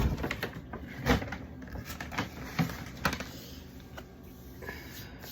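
Food containers and bottles from a fridge being handled and set down: a few scattered knocks and clunks, the loudest at the start and about a second in, then quieter handling.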